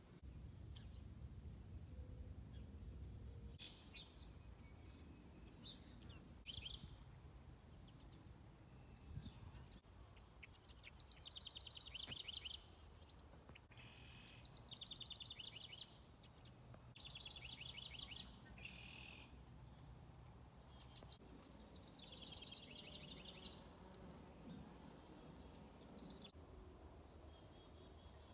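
Faint songbirds singing: a few short high calls, then from about ten seconds in several rapid trilled phrases of a second or so each, repeated with short gaps, over a low rumble.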